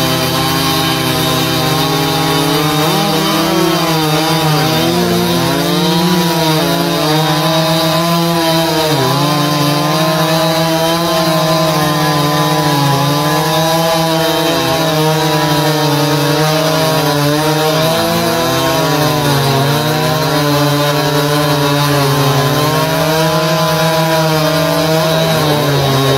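Ported two-stroke chainsaws, a Stihl 026 and a Husqvarna 272, running flat out while cutting wood, their engine pitch sagging under load in the cut and climbing back again and again.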